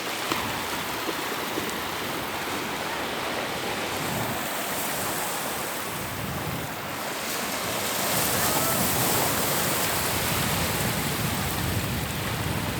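Steady rushing noise of sea surf and wind, swelling a little louder after about eight seconds.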